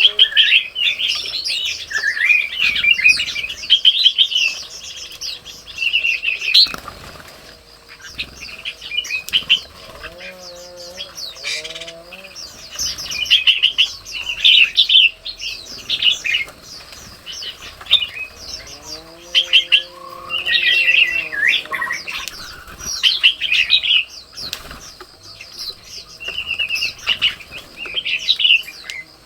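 Red-whiskered bulbuls chirping busily, a rapid run of short high calls that keeps going with brief gaps. Twice, a lower call that rises and falls joins in, and there is one sharp click about a third of the way through.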